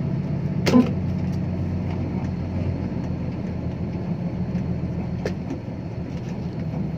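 Six-wheel dump truck's diesel engine running steadily as the truck crawls along, with a sharp knock under a second in and a fainter click a little past five seconds.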